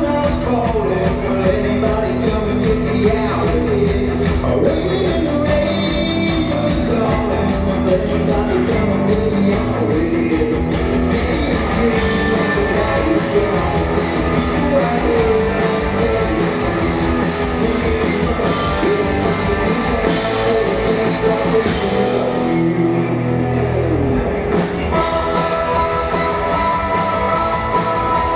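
Live rock band playing, with electric guitars, drums and a singing voice. About 22 seconds in the drums drop out for a couple of seconds, then held guitar chords ring.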